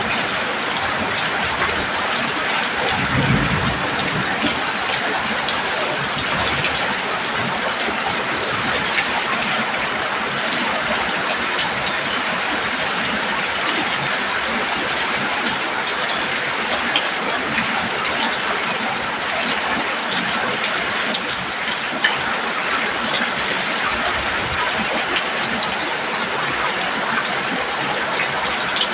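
Heavy rain pouring steadily on a roof: a dense, even patter. A brief low rumble comes about three seconds in.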